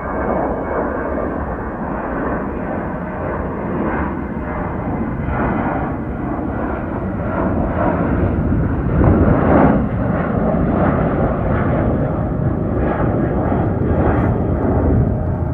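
Boeing 737-700's CFM56-7B jet engines at takeoff thrust: a loud, crackling rumble that swells to its loudest about two-thirds of the way through and stays strong.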